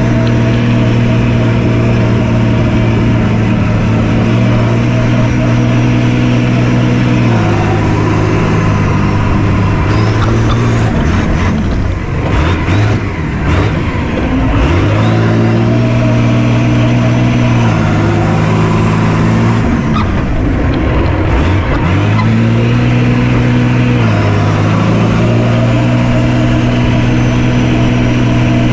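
Swapped-in Cummins diesel engine of a monster truck running loud, its pitch dropping and rising between two steady speeds several times. There is rough clattering noise in the middle.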